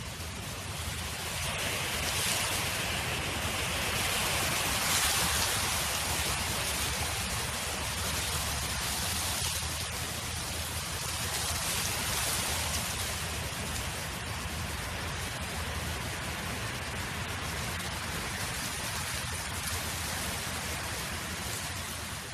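Wind blowing steadily, swelling in a gust from about two to six seconds in, then easing.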